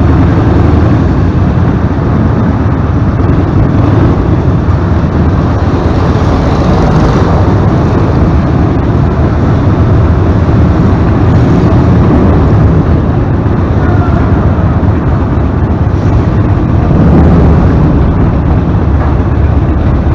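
Harley-Davidson Sportster's air-cooled V-twin running through Vance & Hines Short Shots Staggered exhaust pipes, loud and steady.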